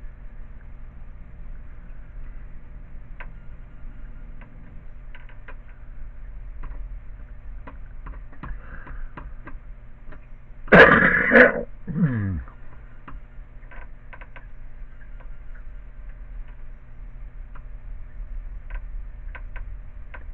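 Steady low electric hum of a soldering gun held on while its tip heats a nail into shovel plastic, with scattered light clicks. About 11 seconds in, a man clears his throat loudly.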